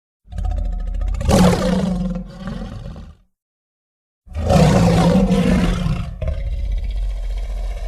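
Two monster-dinosaur roar sound effects: a deep, rough roar about three seconds long, a second of silence, then a second, longer roar.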